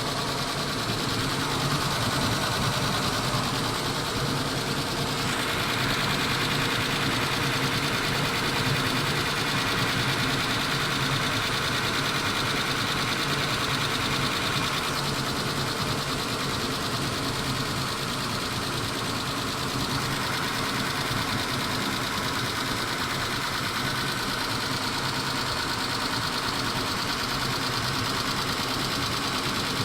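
Mitsubishi 6G72 3.0 V6 engine running steadily with a fast, even ticking over it: the lifter tapping that the owner suspects comes from the hydraulic lifters, though he wonders whether the engine is simply worn.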